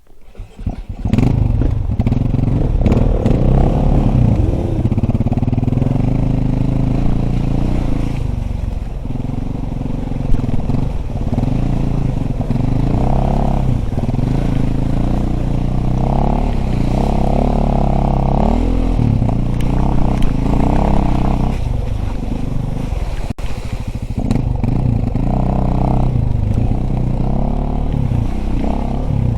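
Dirt bike engine being ridden hard off-road, revving up and down over and over, with clattering from the bike over rough ground. It gets loud about a second in.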